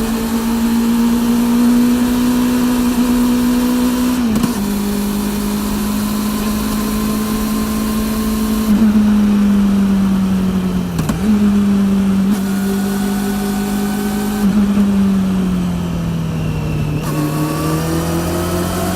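Honda CB400's inline-four engine through a TSR E02 slip-on exhaust, running under way at a steady mid-range pitch that creeps slowly upward. The tone breaks off briefly about four and about eleven seconds in, and it sags for a couple of seconds near the end before climbing again.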